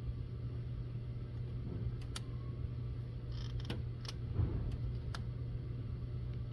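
Steady low hum with a few faint, sharp ticks scattered through it, while 12 volts is applied to the 7.3 IDI diesel's fuel shutoff solenoid; the solenoid gives no audible click, which leaves it suspect as the cause of the crank-no-start.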